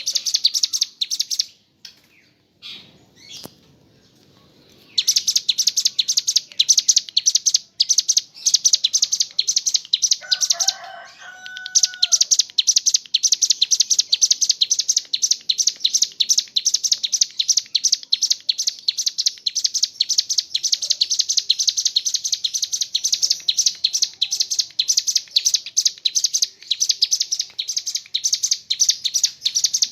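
Ciblek gunung, a prinia, singing a long, very rapid high-pitched trill ('ngebren'). The trill breaks off about two seconds in and resumes a few seconds later. It pauses again briefly about ten seconds in, where a short, lower call is heard.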